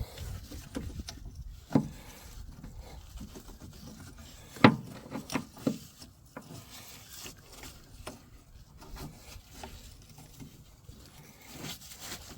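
Hand tools knocking and scraping against metal while the rebuilt drive motor's bolts and hose fittings are tightened: a few scattered sharp knocks, the loudest cluster about five seconds in.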